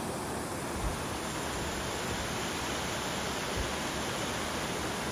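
Steady rush of water flowing out of the Fosse Dionne spring, with two faint low thumps about a second in and again a few seconds later.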